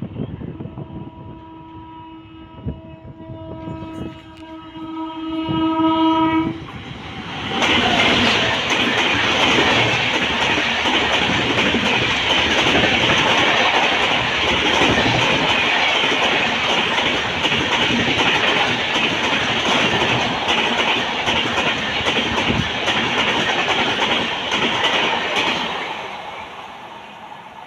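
A train horn blows one long steady note for about six seconds, growing louder toward its end. About a second later a passenger train of LHB coaches passes close at speed, loud, its wheels clattering over the rail joints, for about eighteen seconds. The sound then fades as the last coach moves away.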